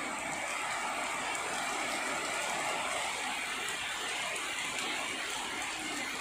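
Heavy rain falling steadily, a dense, even hiss of drops on the road and leaves.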